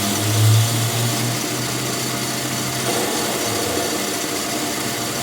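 A power tool running steadily in a workshop, with a low hum that fades out about three seconds in.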